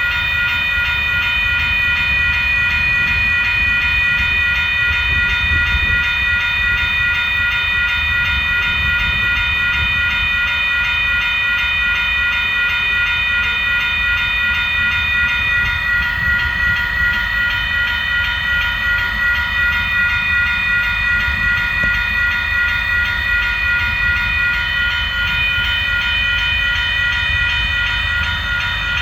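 A train passing with a low rumble, under several steady high ringing tones that run throughout. The loudness pulses gently from about halfway through.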